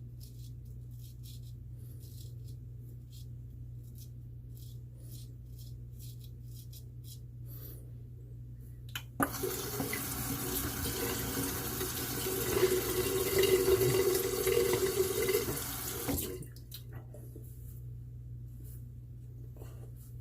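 A sink tap turned on suddenly about nine seconds in, water running into the basin for about seven seconds, getting louder toward the middle, then shut off. Before it, faint short scratches.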